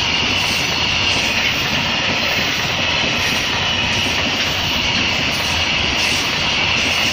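A train running past with a steady, loud rushing noise.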